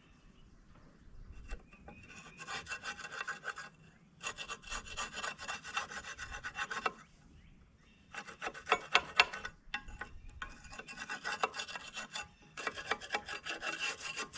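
Ratchet wrench clicking in fast runs of strokes, in several bursts with short pauses between, as it works a bolt or nut on a Ford 545A backhoe's steering column.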